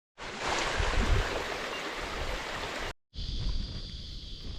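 Rushing of swollen, muddy floodwater, a steady noisy wash, for about three seconds. After a short break it gives way to a steady, high insect chorus over quiet background.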